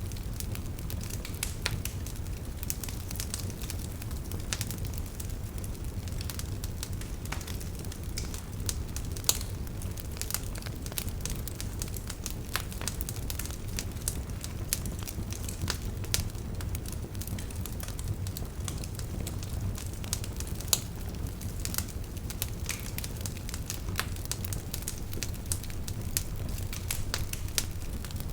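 Wood fire burning with a steady low rumble of flames and frequent irregular crackles and pops from the embers.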